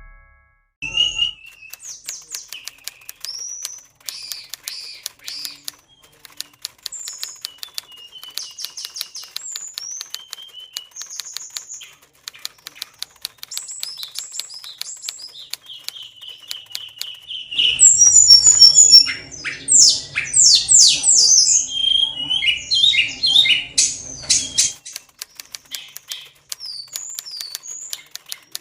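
Oriental magpie-robin (kacer) in high breeding condition singing varied whistled phrases and slurs, over a fast, steady run of small clicks. About two-thirds of the way through the song grows loudest and densest for several seconds.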